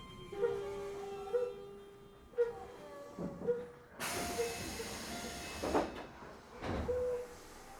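Keio 7000 series commuter train at a station stop: a short door chime repeating about once a second, then about four seconds in a sharp hiss of air lasting nearly two seconds, with a few low thuds as the pneumatic doors work.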